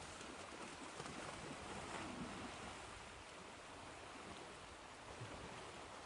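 Ocean waves washing onto a shore: soft, steady surf that swells slightly about a second or two in and then eases.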